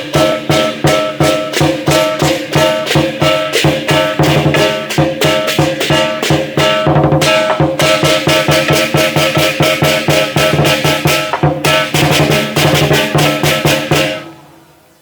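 Lion dance percussion: a drum with clashing cymbals and gong, beaten in a fast, steady rhythm. It stops suddenly near the end.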